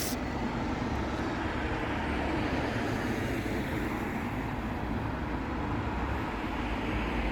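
Steady road traffic noise of buses and cars running on a busy street, an even rumble without distinct passes or horns.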